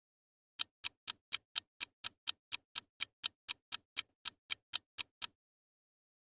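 Clock-tick sound effect used as a quiz countdown timer: about twenty sharp ticks, about four a second, stopping about a second before the end.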